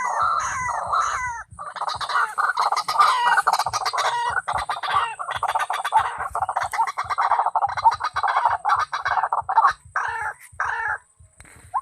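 White-breasted waterhen calling: a fast, unbroken run of repeated harsh notes that breaks into a few separate calls and stops about eleven seconds in.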